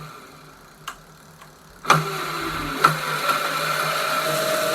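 A few sharp clicks, then about two seconds in a dirt bike engine starts and settles into a steady idle, being warmed up from cold.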